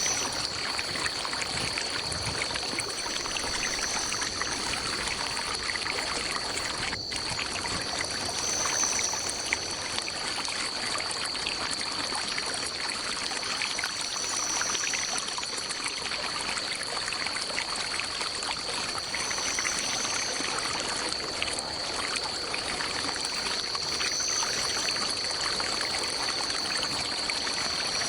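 A forest stream running and trickling steadily, under a continuous high-pitched tone, with a shorter, higher tone repeating every few seconds.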